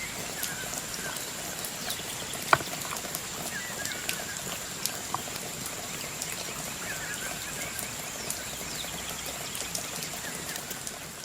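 Forest ambience: a steady rain-like hiss with a high, steady whine, a few short bird chirps, and scattered light clicks, the sharpest about two and a half seconds in.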